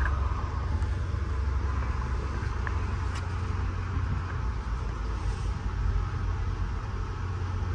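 Steady low rumble of a passenger train running along the track, heard from inside a Budd-built stainless steel coach: wheels and running gear on the rails, with a faint click about three seconds in.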